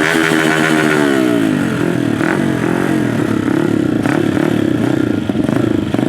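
Dirt-bike engines running hard, their pitch sliding down over the first second or so and again more briefly a couple of seconds in, over a steady engine drone.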